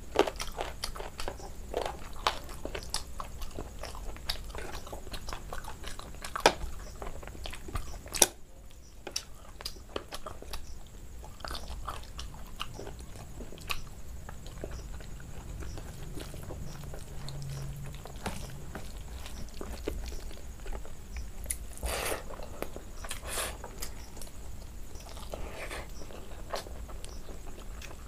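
Close-miked chewing of rice and curry eaten by hand, with many small wet mouth clicks and a few sharper smacks.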